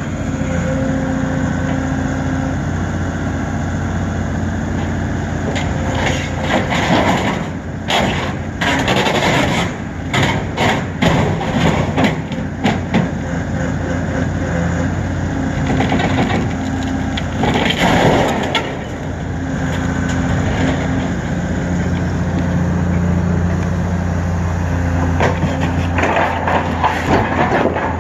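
Excavator engine running steadily under load while it tears into a large produce chiller, with bursts of cracking and crunching from the panels and frame, once about a third of the way in and again just past the middle.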